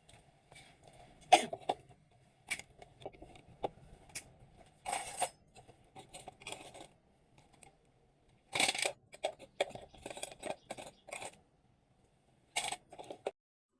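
Irregular clicks, taps and short scrapes of kitchen items being handled, some sharper knocks among them, with brief pauses between bursts.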